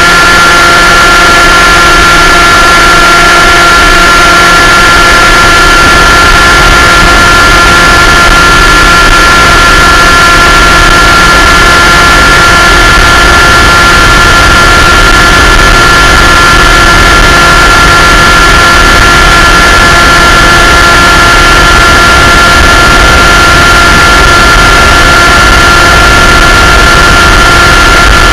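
Light aircraft's engine and propeller running steadily in flight: one continuous, unchanging drone with a high steady whine, under a loud rush of wind on the microphone.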